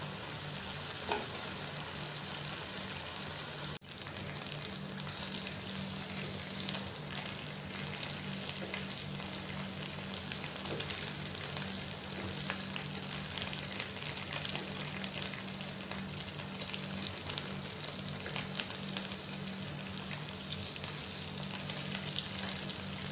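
Chicken leg quarters sizzling as they fry in a pan, a steady hiss with scattered crackles. The sound cuts out for an instant about four seconds in.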